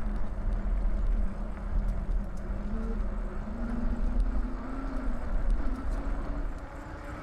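Steady low rumble of wind and ride noise while cycling, with a faint hum that wavers and drifts up in pitch.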